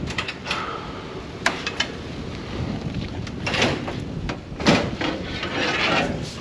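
Metal clanks, clicks and scraping as a pickup truck's tailgate is opened and worked off its hinges, with sharp knocks throughout and longer scrapes in the second half.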